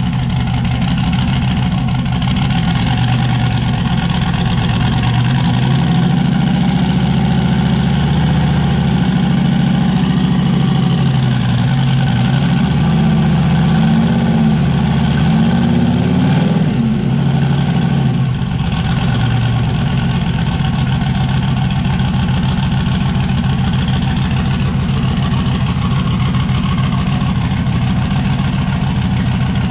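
Turbocharged LS V8 in an S10 drag truck running, idling with the revs rising and falling several times through the middle, then settling back to a steady idle.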